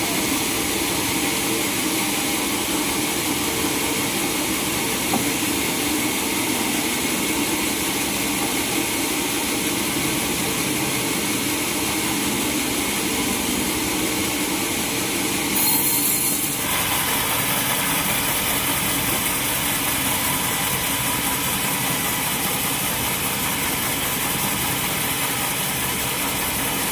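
Sawmill machinery running steadily. Its sound changes abruptly a little past halfway, after a brief louder burst.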